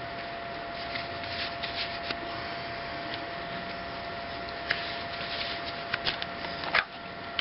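Rustling and handling noise with scattered sharp clicks over a faint steady whine; the loudest click comes near the end.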